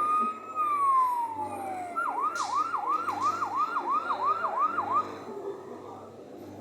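Electronic fire-engine siren sound effect played by a kiddie-ride fire engine: one slow wail that rises and then falls, then a fast yelp sweeping about three times a second for roughly three seconds before it stops.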